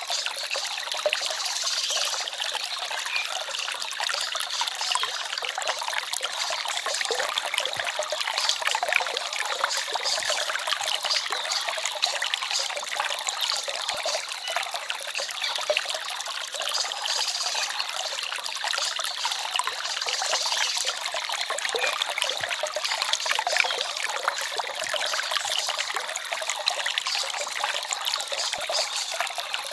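Small forest stream trickling and babbling steadily. It is a bright, splashy water sound with very little deep rumble.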